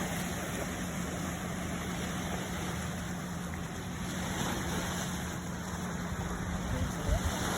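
Steady rush of the sea under a low, steady engine hum, with a few low bumps near the end.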